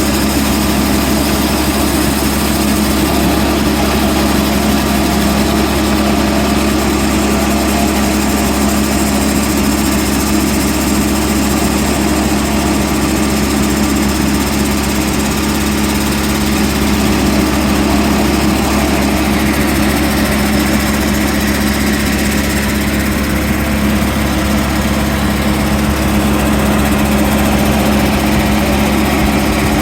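A sawmill's engine running steadily at an even speed, with a strong steady hum.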